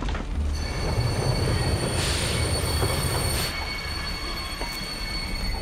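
Railway carriage running on the rails: a steady low rumble of the train in motion, with high, steady squealing of the wheels on the rails from about half a second in.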